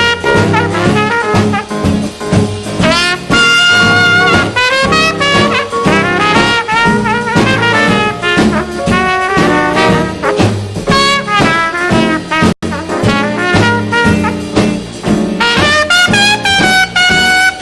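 Swing jazz band playing an instrumental break, horns carrying the melody over a steady rhythm section. The music drops out for an instant about twelve and a half seconds in.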